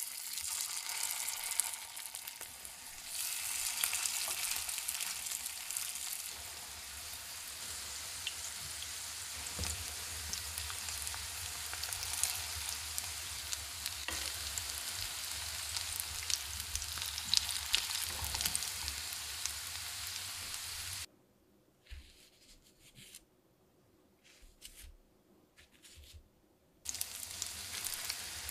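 Shredded cabbage patties sizzling in hot vegetable oil in a frying pan, with small crackles of spitting oil. The sizzle drops away about twenty seconds in, leaving only a few faint spurts, then comes back near the end.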